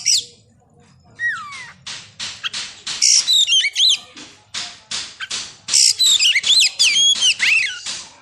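Oriental magpie-robin (kacer) singing: a run of harsh, rasping notes about three a second, broken twice by loud, quickly bending whistled phrases.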